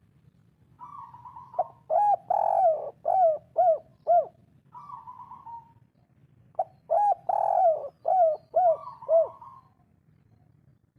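Spotted dove (tekukur) singing the 'kuk 3' song: two cooing phrases, each a softer opening coo followed by a quick run of rising-and-falling coos.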